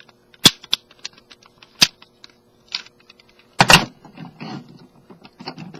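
Hard plastic parts of a Transformers Generations Sandstorm action figure clicking and knocking as they are folded and tabbed into place: a handful of sharp clicks, a louder double click a little past the middle, and light rattling between.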